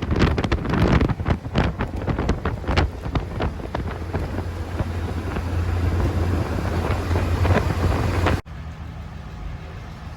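Wind buffeting the microphone over the low engine and road drone of a Morgan Plus 4 driving at speed. It cuts off suddenly about eight seconds in, leaving a quieter steady background.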